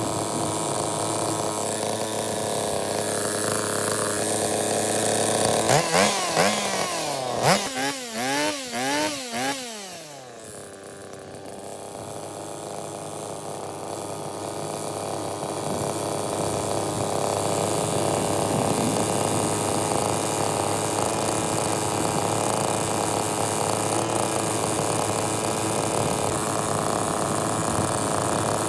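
Small lawn mower engine running steadily, revved up and down several times in quick succession about six to ten seconds in. It then dips low and climbs gradually back to a steady run.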